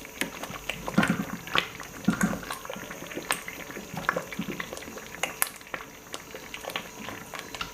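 Thick tomato paste bubbling in a pot, with irregular plops and sharp pops as it is boiled down to drive off excess water.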